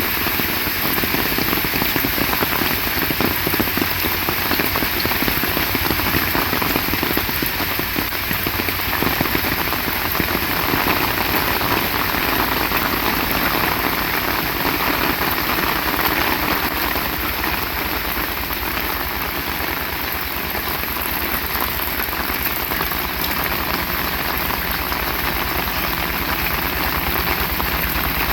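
Heavy rain falling steadily and splashing on surfaces, with a low steady rumble underneath that grows a little near the end.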